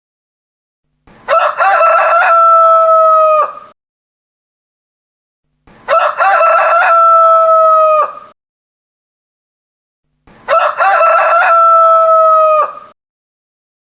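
Rooster crowing three times, a few seconds apart. Each crow lasts about two and a half seconds and ends on a long held note.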